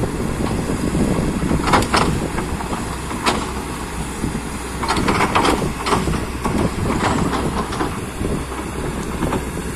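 Kobelco amphibious excavator's diesel engine running steadily. Irregular metallic clanks and knocks from the working machine sound over the engine, several of them in a cluster about halfway through.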